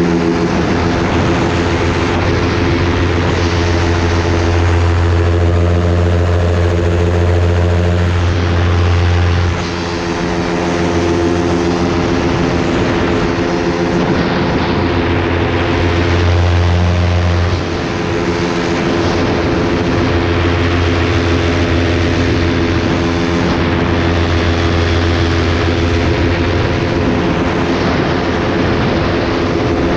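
Propeller-driven light aircraft's engine running steadily with a deep, even hum, dipping briefly in level twice, about ten and eighteen seconds in.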